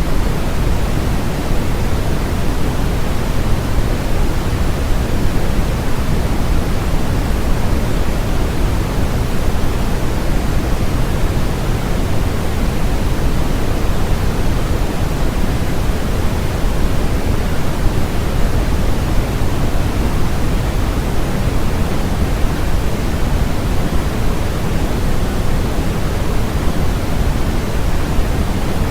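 Steady electronically generated noise: an even hiss, heavier in the low end, that never changes.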